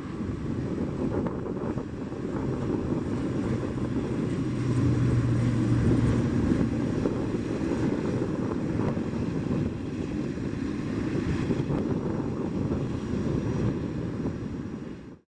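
A Boeing 777-200F freighter's twin GE90 turbofan engines running as the plane arrives: a steady, deep rushing noise with a low hum that swells about five seconds in, then cuts off abruptly at the end.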